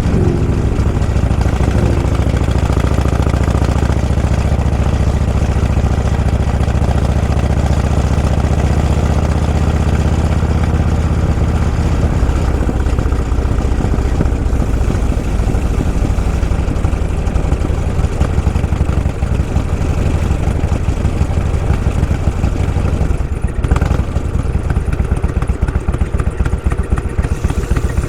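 Motorcycle engine running under way, heard from on the bike. A steady low drone for about the first twelve seconds becomes a more uneven, pulsing note, with a short knock about three-quarters of the way through.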